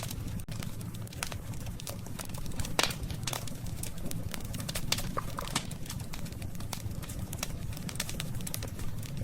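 Wood fire crackling, with frequent sharp pops and snaps, the loudest a little under three seconds in, over a steady low rumble.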